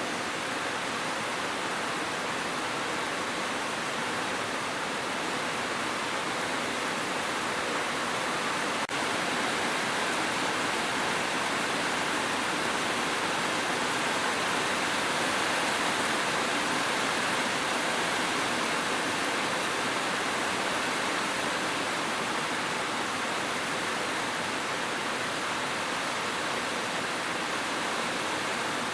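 Steady, dense rain falling as an even hiss, with a brief tick about nine seconds in.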